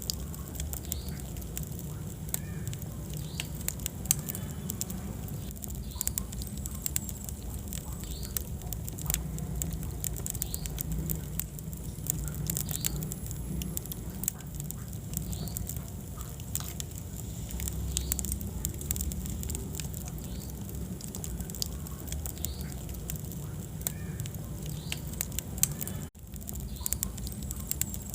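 Wood fire crackling, with frequent sharp pops and snaps over a steady low rumble of the flames. The sound cuts out for an instant about two seconds before the end.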